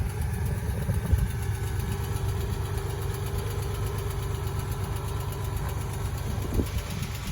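Toyota 4Runner engine idling steadily, a low even rumble with a faint steady whine over it that stops about six seconds in.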